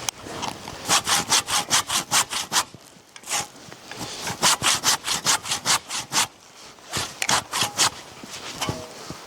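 Hand saw cutting wood in quick back-and-forth strokes, in three runs with short pauses between.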